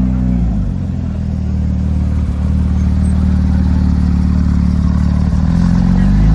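Porsche engine running at low, steady revs, its pitch rising near the end as it is revved.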